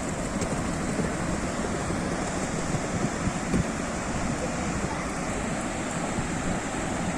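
Sea surf: a steady, continuous rush of waves washing in, with wind rumbling on the microphone.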